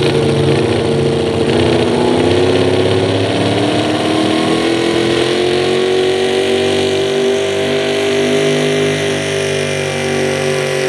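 Super modified four-wheel-drive pulling truck, a 1974 Chevy, running at full throttle as it pulls the sled. Its engine note dips a little about two seconds in, then climbs steadily through the rest of the run.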